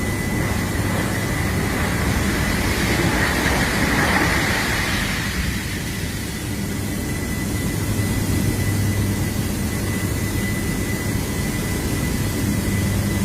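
Roar of 50 tons of scrap steel dropping from a clamshell charging bucket into an electric arc furnace: a loud rushing surge for the first five seconds or so that eases about six seconds in, leaving a steady industrial rumble with a low hum and a thin high tone.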